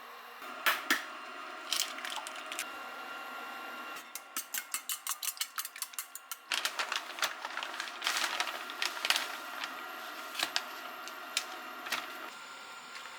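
Kitchen food-preparation sounds: scattered sharp knocks and clatter, with a quick run of about a dozen taps, roughly five a second, a few seconds in.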